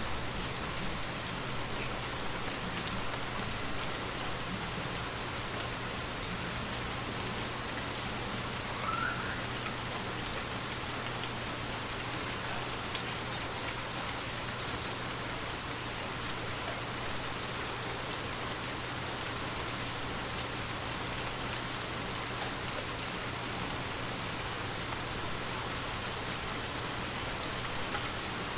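Steady rain falling on a surface, with scattered individual drop ticks. A brief faint rising chirp sounds about nine seconds in.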